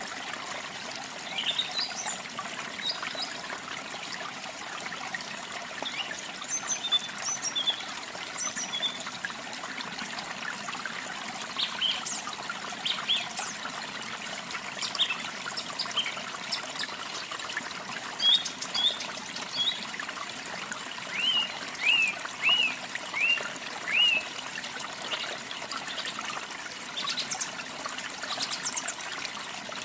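Water trickling and running steadily, as from a small stream, with songbirds chirping over it in short scattered calls. About two-thirds of the way through comes the loudest moment: a quick run of five chirps.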